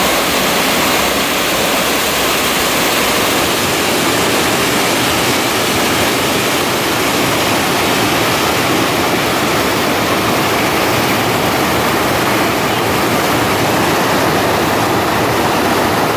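A small waterfall, about ten feet high, rushing steadily.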